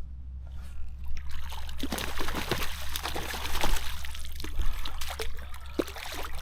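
Hooked trout splashing and thrashing at the water's surface as it is played in and landed, in a run of irregular splashes.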